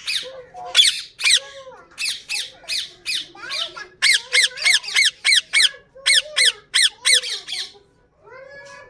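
Indian ringneck parakeets squawking in a rapid series of harsh, repeated calls, about two to three a second, which stop shortly before the end.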